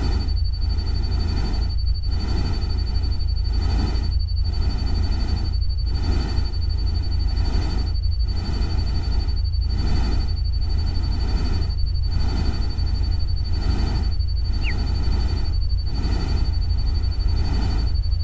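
Nature-sound ambience track: a steady low rumble under a hiss that swells and fades about every two seconds, with a thin steady high tone running through it. A single short falling chirp comes about three-quarters of the way in.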